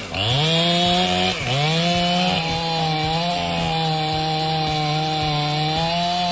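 Chainsaw engine revving up twice in quick succession, then running at full throttle with a steady high pitch that wavers slightly.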